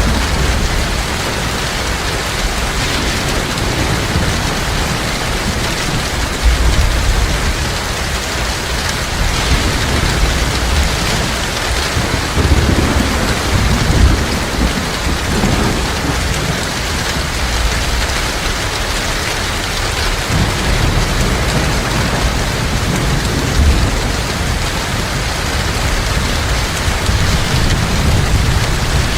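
Heavy rain falling steadily, with low rumbles of thunder swelling and fading, strongest around the middle.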